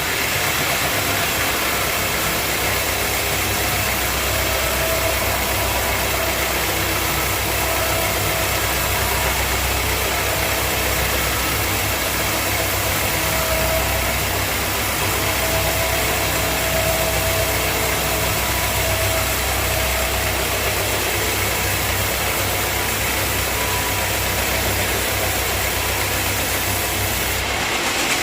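Sawmill machinery running steadily: a constant engine-like hum under a wide even noise, with the low hum dropping away shortly before the end.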